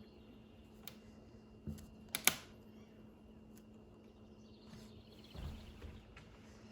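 Small clicks and scrapes of a screwdriver on cover-plate screws as they are turned to line up their slots, with the sharpest click a little over two seconds in. A faint steady hum runs underneath.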